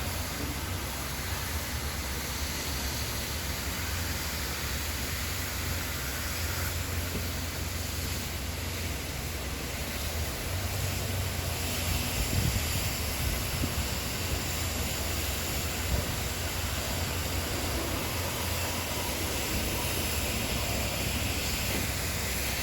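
Steady background noise with a constant low rumble.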